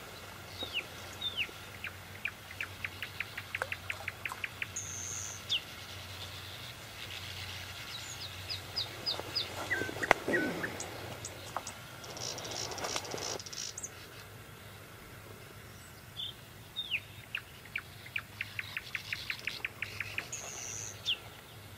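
A songbird singing in short repeated phrases: a couple of downward chirps, a fast ticking trill and a high whistle, heard once at the start and again near the end. About ten seconds in there is a single sharp thump amid a few seconds of rustling.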